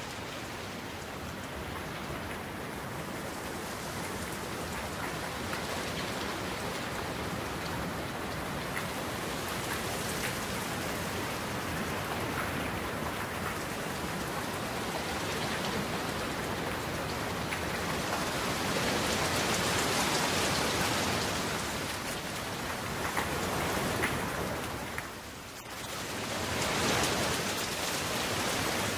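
Steady rain falling, a dense even hiss that grows louder in the middle and dips briefly near the end before coming back.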